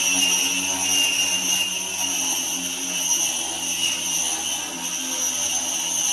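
An electric motor running steadily at one speed, with a high whine over a low hum.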